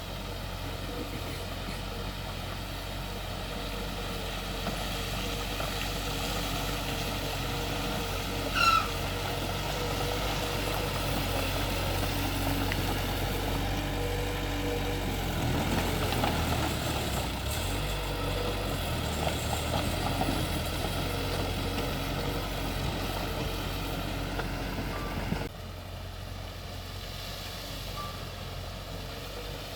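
Heavy diesel earthmoving machinery running steadily, with one short, sharp rising squeal about nine seconds in. The sound drops suddenly to a quieter engine hum about 25 seconds in.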